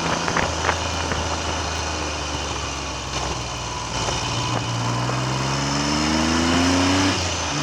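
Triumph Trident's three-cylinder engine pulling along steadily, then accelerating from about halfway in with the pitch climbing, dropping sharply at a gear change near the end and climbing again. Wind noise on the microphone runs under it.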